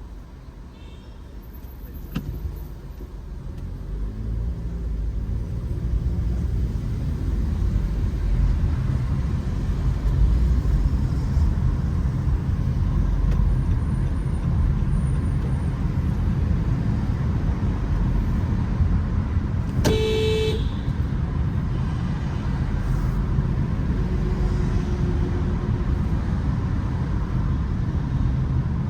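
Car and road noise, a low rumble that builds over the first few seconds and then holds steady. About two-thirds of the way through, a car horn gives one short toot.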